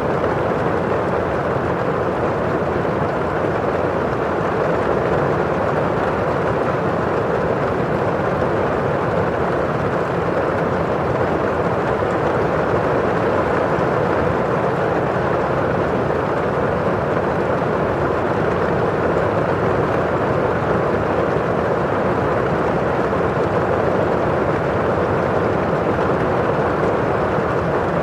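Steady rain on window glass and falling outside: an even, unchanging wash of noise with no single drops standing out.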